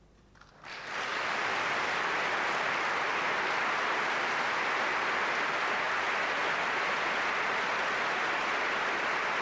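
Audience applauding, rising quickly about a second in and then holding steady.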